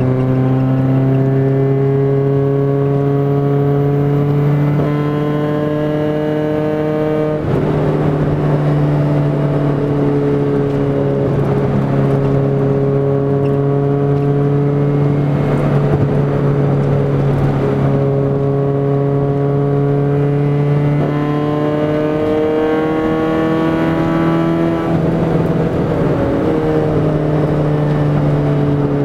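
Honda B18C1 four-cylinder engine with a straight-piped exhaust and no catalytic converter, running under way and heard from inside the cabin. Its pitch climbs slowly and then falls suddenly, about seven seconds in and again near the end.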